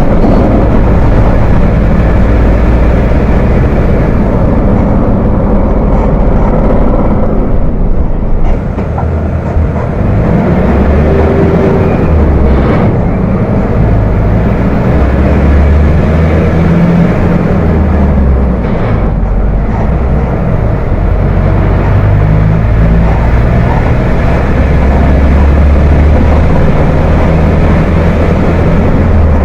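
Volkswagen 17.230 OD bus diesel engine running with a deep rumble, its low note rising and falling. There is a brief drop in loudness about a third of the way through.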